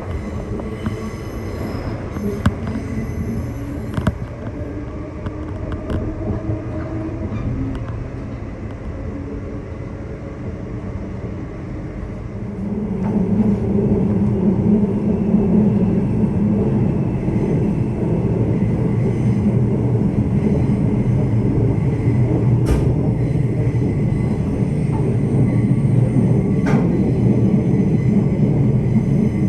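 Queensland Rail electric suburban train running on the track, a steady rumble that grows louder about thirteen seconds in and stays up, with a few sharp clicks.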